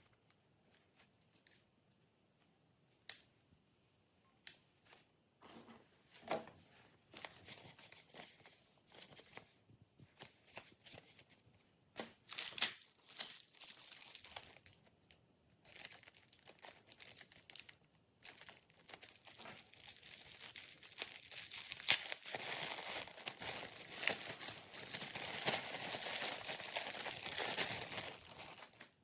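Packaging being handled and opened by hand: scattered clicks and short rustles, then continuous crinkling and tearing in the last third that cuts off suddenly.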